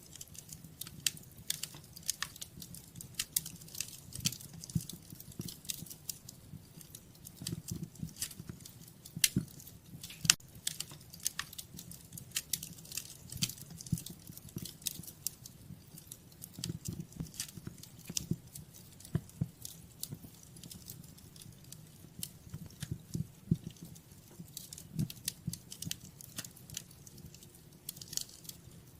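Wood fire crackling in a fireplace: irregular sharp pops and snaps, a few of them louder, over the low steady rush of the flames.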